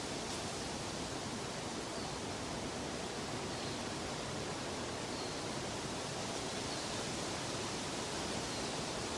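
Steady, even rushing noise, with faint short high chirps about every one to two seconds.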